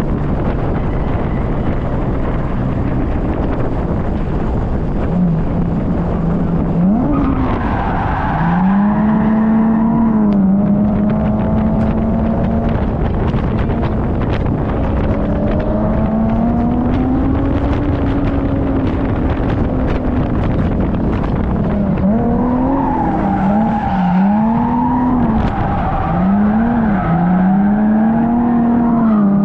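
Drift car engine revving on track, its note holding, then rising and falling with throttle, with several quick rev swings near the end, over tyre noise from the sliding car.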